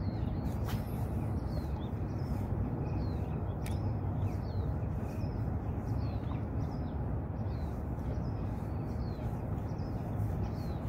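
A small bird chirping short notes over and over, about two a second, over a steady low rushing background, with a couple of sharp clicks.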